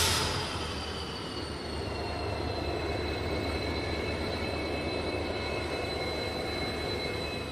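Indian Railways WDP4 diesel locomotive, its EMD 16-cylinder two-stroke engine running with a steady low drone, under a high whine that slowly drifts down in pitch.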